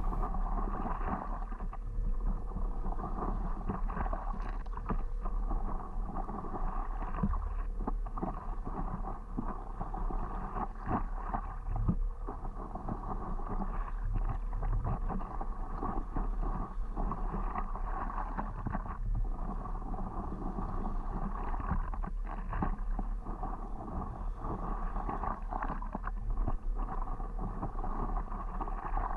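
Paddle strokes and water lapping around a stand-up paddleboard, with a steady low rumble of wind on the microphone.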